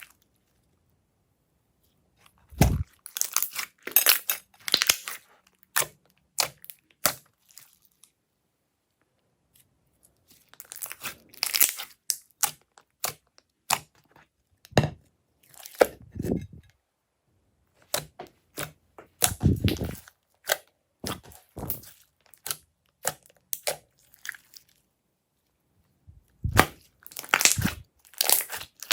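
Clear slime being pressed and stretched by hand, with sticky crackles and pops that come in spells of a few seconds separated by short pauses.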